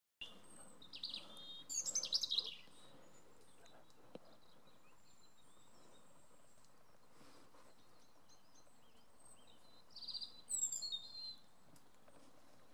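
Songbird singing: two short bursts of high chirping song, one about a second in and another about ten seconds in, over faint steady outdoor background noise.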